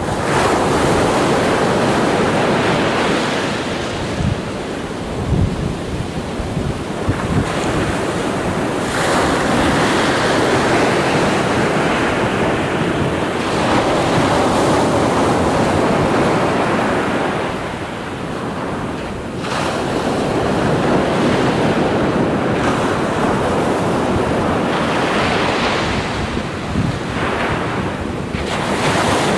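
Ocean waves breaking and washing in, in swells that rise and fall every few seconds, with wind buffeting the microphone.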